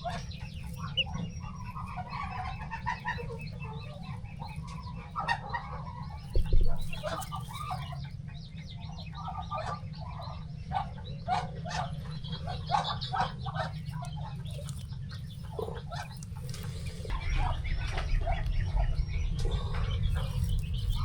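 Chickens clucking in many short, repeated calls, over a steady low rumble that grows louder near the end.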